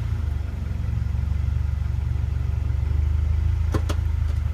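1996 Acura Integra's four-cylinder engine running at low revs, a steady low drone with a fast even pulse from the exhaust. Two quick sharp clicks sound close together about three and a half seconds in.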